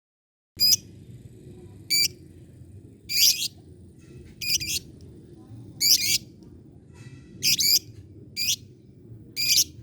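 Lovebird giving short, sharp, high-pitched chirping calls, about eight of them spaced roughly a second apart, over a faint low hum.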